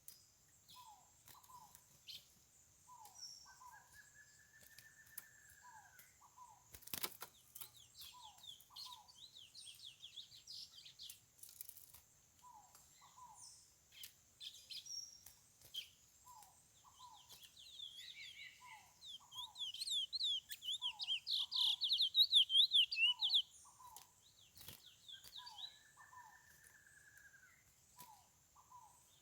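Chestnut-bellied seed finch (curió) singing a fast twittering song in bursts, loudest for a few seconds a little past the middle. Behind it, short paired calls repeat every second or two, a slurred whistle comes twice, and a steady high hiss runs under everything.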